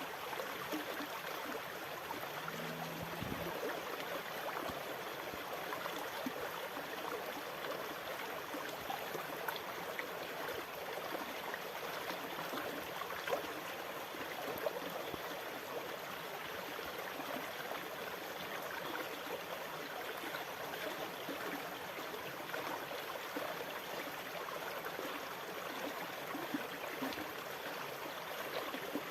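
Sea water washing and trickling steadily, an even rush with no distinct wave surges. A faint low hum sounds briefly about three seconds in.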